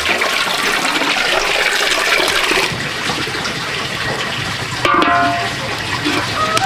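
Water running and splashing steadily, easing a little partway through, with a sharp knock about five seconds in.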